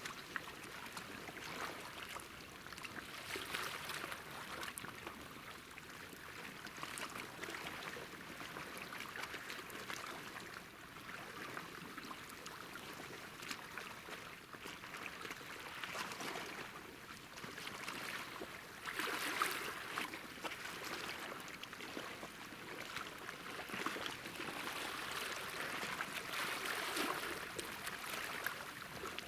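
Small sea waves lapping and washing against the shore, a steady watery hiss that swells and fades every few seconds.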